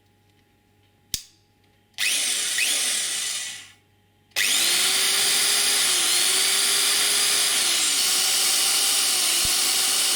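Black and Decker electric drill run up after a click: a short burst of about two seconds that winds down, then a steady run of about six seconds with a motor whine that dips briefly now and then, stopping abruptly.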